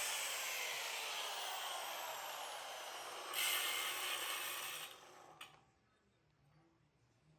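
Angle grinder with a cutoff wheel cutting through a horseshoe, its whine sinking in pitch as the wheel bites into the metal. The cut gets louder again a little past three seconds in, then stops about five and a half seconds in.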